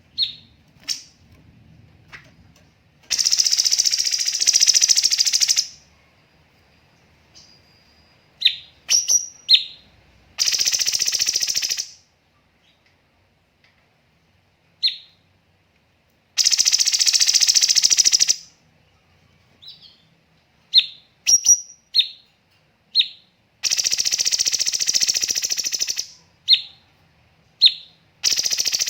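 Cucak cungkok singing in its rapid-fire 'tembakan' style: five long, dense, high trilled bursts of about two seconds each, separated by short pauses filled with quick sharp chirps.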